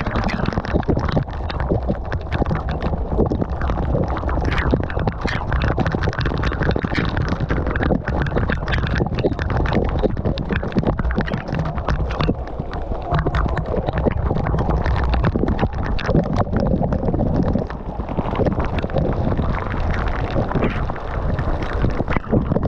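Waterfall rushing close to the camera microphone: a loud, steady low rumble with constant crackle.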